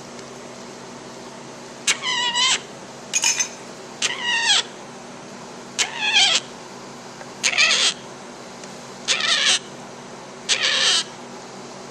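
Imperial Amazon parrot chick (Amazona imperialis) calling repeatedly: seven harsh, wavering, falling calls of about half a second each, one every second or two, typical of a hand-reared chick begging for food.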